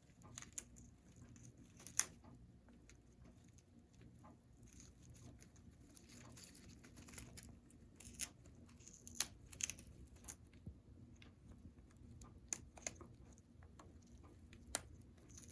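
Congo African grey parrot chewing and biting apart a chew toy: irregular sharp snaps and crunches, the loudest about two seconds in.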